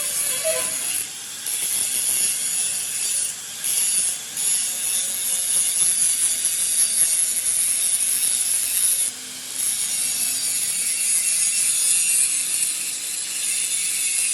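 A harsh, steady scraping hiss of metal being cut or ground on a truck gear part. It breaks off briefly a few times.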